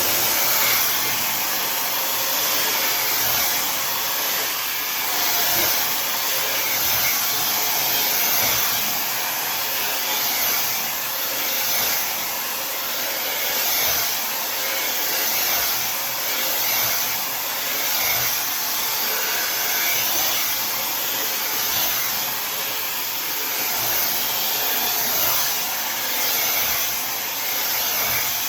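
Tymo Air Hype hair dryer running continuously, a steady rush of blown air drying hair, swelling and fading gently every couple of seconds.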